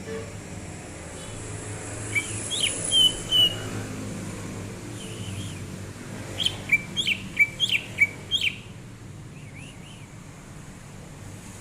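Cucak ijo (green leafbird) singing: a few short whistled notes, then a quick run of about six sharp down-slurred whistles, over a steady low background noise.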